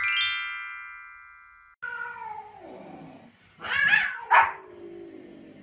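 A quick rising run of bell-like chime notes rings out and fades, then a cat meows with long falling calls while a small spitz-type dog gives a few sharp barks; the last bark is the loudest, right at the end.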